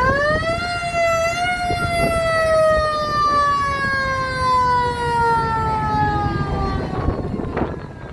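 Mechanical siren winding up quickly, then coasting down in one long, slowly falling wail that fades about seven seconds in, over a low rumble.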